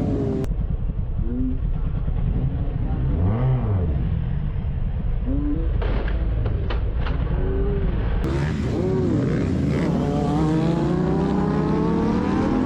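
Motorcycle engine accelerating through the gears, its pitch rising and dropping back with each shift, then one long climbing rise near the end.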